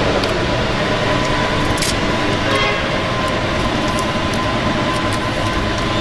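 Steady machinery noise with a faint constant whine and a few scattered clicks.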